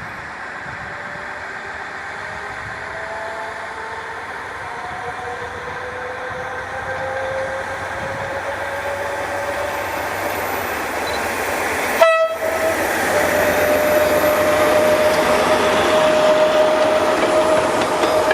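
A narrow-gauge diesel train approaching and growing steadily louder, its engine note rising slowly. About two-thirds of the way through there is a brief break, then a strong steady tone holds over the louder running noise of the train.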